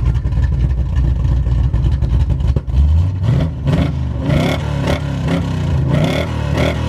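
1970s Pontiac Firebird drag car's engine running steadily, then revved in a series of quick throttle blips from about three seconds in, each a short rise and fall in pitch. The owners suspect its ignition timing is way off and that it may be down a couple of cylinders.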